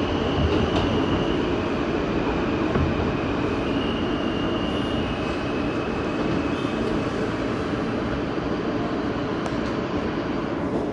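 New York City subway train (A express) running along the track, a steady rumble of wheels on rails. Faint high-pitched squeals come and go over it.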